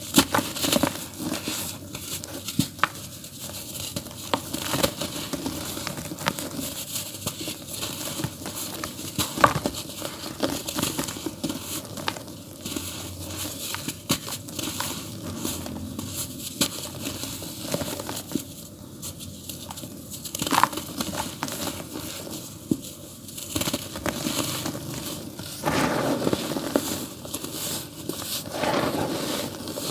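Dry earthy dirt crumbling in a tub: a dense, continuous crackle of small gritty crunches and clicks, swelling louder twice near the end.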